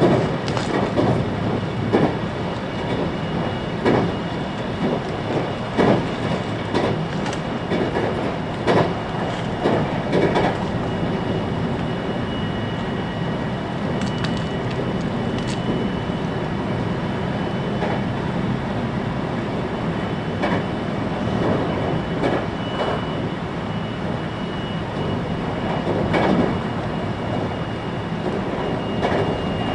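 Inside a 521-series electric multiple unit running on the line: a steady rumble of wheels on rail, with sharp clacks over rail joints every second or two through the first third. The run then smooths out, and a faint steady high whine comes in.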